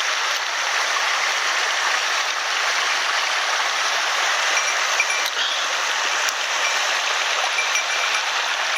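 Small mountain headwater stream running steadily, an even rush of water.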